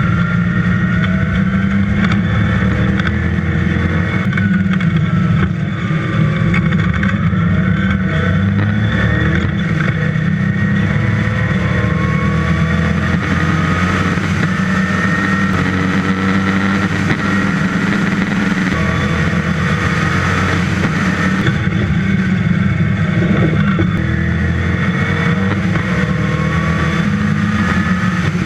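Westfield's dry-sumped 5-litre V8 running hard on track, its revs rising and falling repeatedly as the driver accelerates, shifts and lifts.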